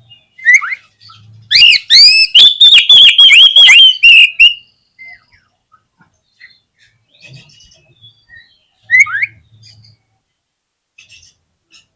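Oriental magpie-robin (kacer) singing: a loud run of rapid, sweeping chirps starting about a second and a half in and lasting about three seconds, then scattered quieter notes and a single rising call near the end.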